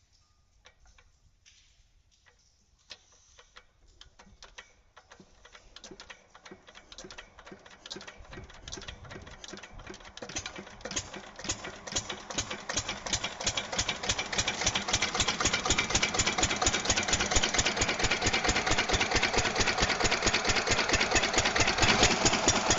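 Small engine of a DIY model tractor starting up: scattered ticks at first, quickening and growing louder over several seconds into a fast, steady clatter.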